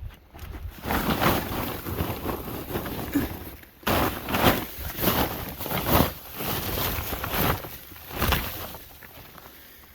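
Blizzard wind gusting against the microphone in irregular surges about a second long, rising and falling in strength.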